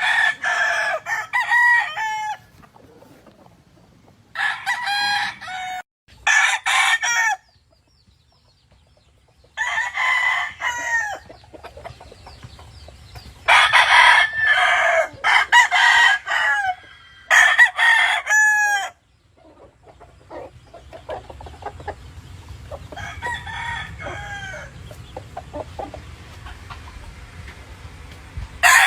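Several gamefowl roosters crowing one after another, about nine crows in all, each lasting a second or two. One crow in the second half is fainter and further off.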